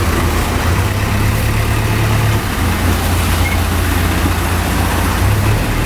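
Mahindra 575 DI tractor's four-cylinder diesel engine running steadily at a low, even speed.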